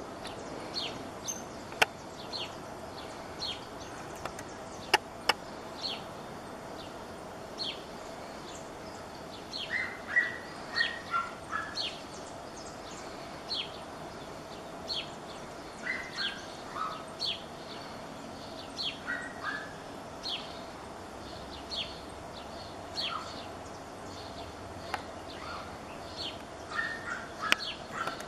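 Birds calling: short high chirps repeated about once a second, with quick runs of lower falling notes now and then, over a faint steady hum and a few sharp clicks.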